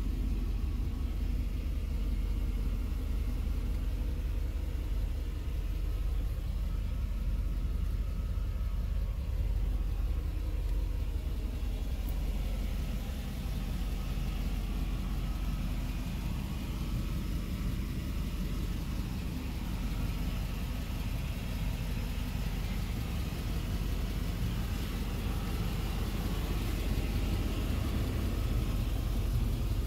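1992 Cadillac Brougham's V8 engine running steadily, heard from inside the cabin.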